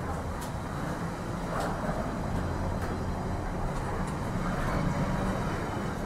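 A railway locomotive running with a steady low rumble.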